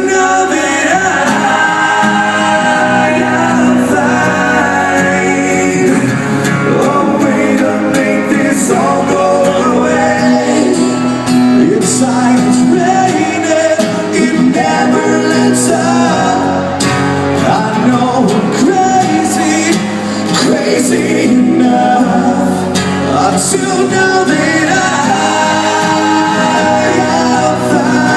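Hard rock song with a male lead vocal singing over guitars and drums, playing steadily and loud.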